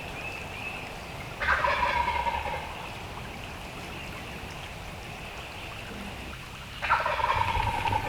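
Wild turkey gobbler gobbling twice: a rattling gobble lasting about a second, starting about a second and a half in, and another starting near the end.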